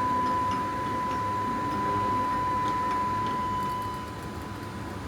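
Tigerstop Pro automated stop's motor-driven pusher travelling along its rail to a programmed 50 position: a steady whine over a low hum that fades out about four seconds in as the stop arrives.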